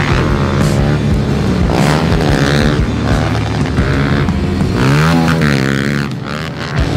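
Pit bike engines running and revving, their pitch rising and falling, with a sharp rev around the middle and a dip near the end.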